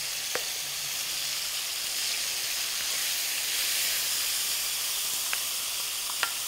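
Tomato purée sizzling in hot oil in a wok with fried kebab pieces: a steady hiss that swells a little toward the middle, with a few light clicks as it is stirred with a spatula.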